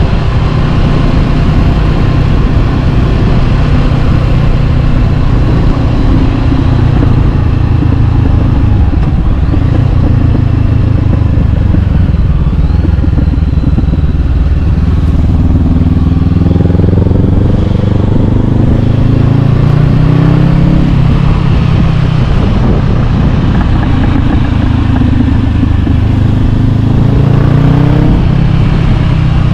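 Honda CB500X's parallel-twin engine through an Arrow Pro-Race exhaust, running under way: it holds a steady pitch for the first half, then the revs climb twice in the second half as the bike accelerates, dropping back in between.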